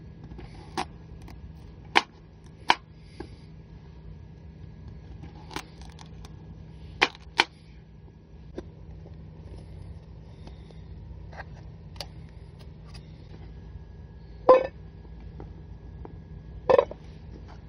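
Scattered sharp clicks and knocks, about a dozen at irregular intervals, from utensils and packaging being handled while preparing a steak. The loudest knock comes about three-quarters of the way in, over a steady low hum.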